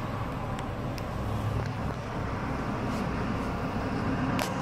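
Car engine idling steadily, heard from inside the cabin as a low hum, with a few faint clicks and a sharper click near the end.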